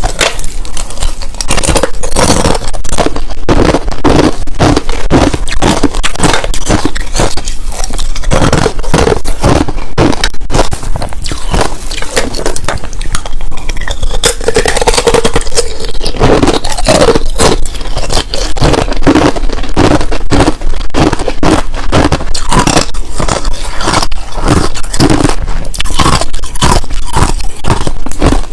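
Clear ice and powdery crushed ice being bitten and chewed close to the microphone: a dense, rapid run of loud crunches and crackles.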